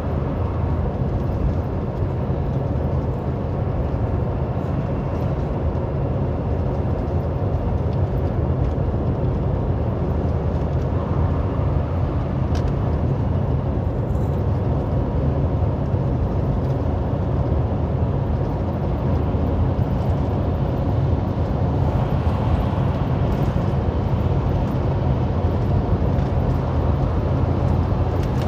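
Semi truck's diesel engine and road noise heard from inside the cab at highway speed: a steady low rumble with a faint engine hum.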